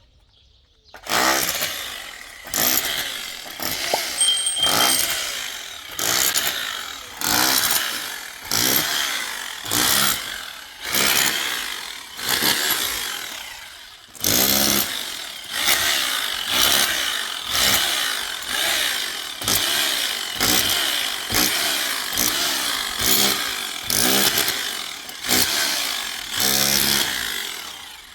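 Rhythmic sawing: a saw cutting through material in regular strokes, about one a second, each starting sharply and fading. There is a brief pause about halfway through.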